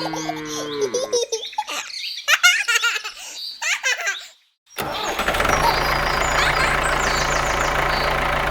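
Music, then a few seconds of short chirpy, laugh-like sounds, then after a brief silence a small motor starts and runs steadily with a low hum.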